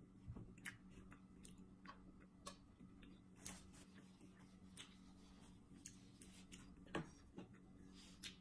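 Quiet chewing and small wet mouth clicks as a person eats, with a sharper click about seven seconds in, over a faint steady hum.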